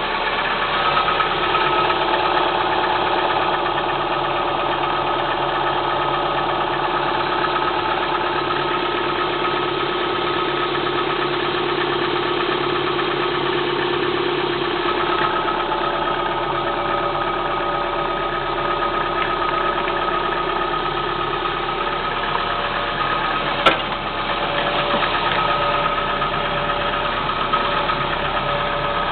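Kia Spectra 1.6 four-cylinder engine idling cold with a rattling knock. One sharp click stands out late on.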